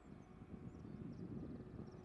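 Distant low rumble of a Class 66 diesel locomotive hauling a long train of hopper wagons, with faint bird chirps above it.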